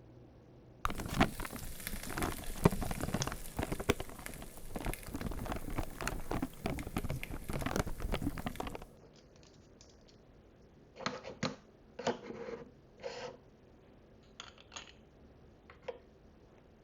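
Hands rummaging through small plastic miniature food and dish pieces: a dense clatter and rustle of many tiny knocks for about eight seconds, then a few separate light clicks and taps as single pieces are handled and set down.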